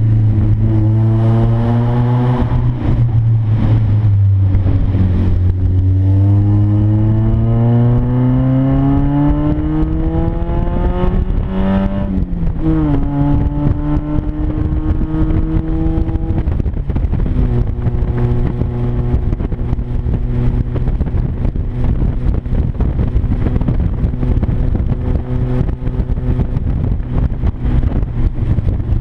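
1996 Mazda Miata's 1.8-litre four-cylinder engine on the highway, very loud through an exhaust leak made by spacing the mid-pipe off the catalytic converter. The engine note climbs steadily as the car accelerates and drops sharply at a gear change about twelve seconds in. It steps down again a few seconds later, then settles into a steady cruise.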